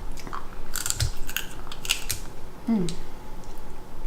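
A run of sharp cracks and clicks as seafood shells, such as snow crab legs, are broken open while eating, most of them packed into the first half.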